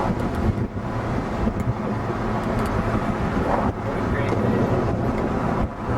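Steady rumble of a car driving, with road and engine noise and some wind buffeting.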